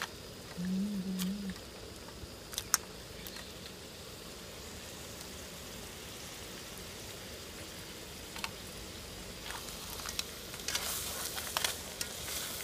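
Crab pieces sizzling in a metal wok, with a few sharp clicks of a metal ladle against the pan about two and a half seconds in and stirring scrapes from about ten seconds in. A brief low hum sounds about a second in.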